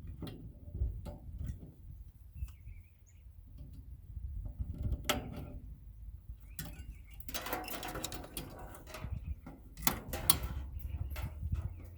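Wiring being pulled out of a furnace: scattered clicks and knocks of wires and metal parts, with a longer stretch of scraping and rustling about seven to eight and a half seconds in and another just before ten seconds.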